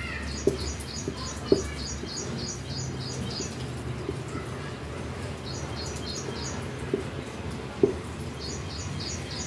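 A small bird chirping in quick, even runs of high notes, about three a second, in three runs. Underneath, a marker gives soft knocks and faint scratching on a whiteboard as someone writes.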